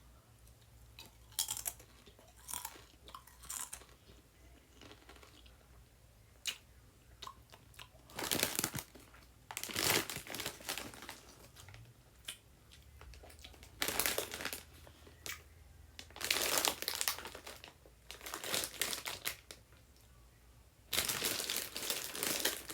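Kettle-cooked potato chips crunching as they are bitten and chewed close to the microphone, in separate bursts with short pauses between.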